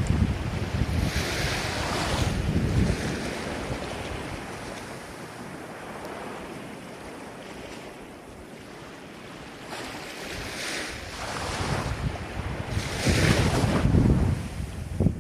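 Ocean waves on the shore, surging and easing: a wave washes in at the start, the surf quietens through the middle, and another builds and breaks loudly near the end.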